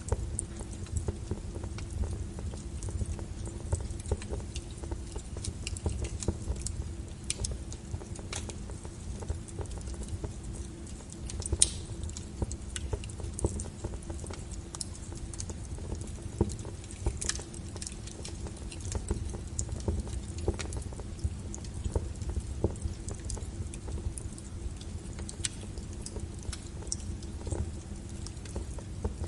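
Log fire burning in a fireplace: a steady low rumble of the flames with irregular sharp crackles and pops from the wood, one louder pop about halfway through.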